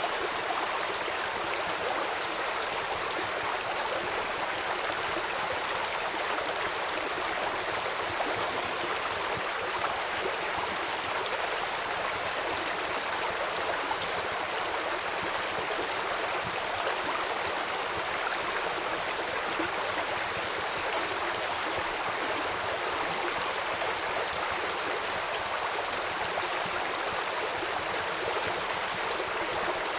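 Steady rushing of a flowing stream. From about a third of the way in, a faint short high chirp repeats roughly once a second over it.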